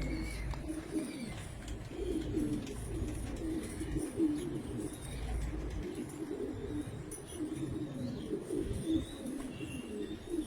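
Several domestic pigeons cooing over one another without pause.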